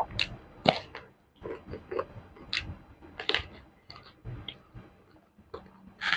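A person biting and chewing crunchy food, with irregular sharp crunches and wet chewing sounds.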